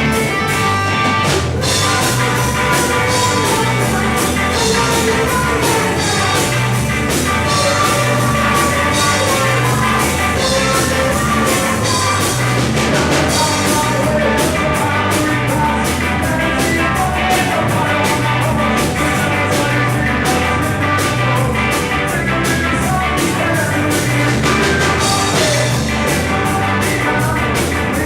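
A rock band playing: electric guitars, bass guitar and a drum kit keeping a steady beat.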